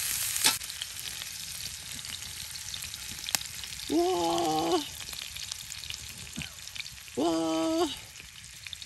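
Food frying in hot oil, a steady sizzle that is loudest at the start. Two short held voice-like tones break in, about four seconds in and again near the end.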